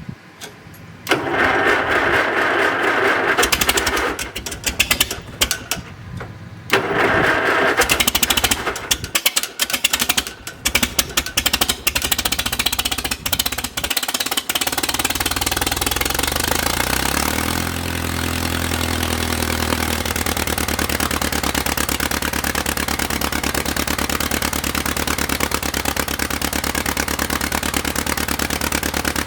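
An engine starting up: loud, ragged stretches with short breaks through the first half, then a brief drop in pitch a little past halfway, after which it runs at a steady idle.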